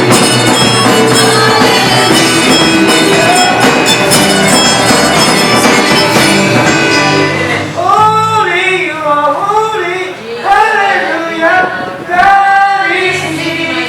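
Worship band playing a full, loud arrangement; about halfway through the band thins out and a singer's voice carries the melody over lighter accompaniment.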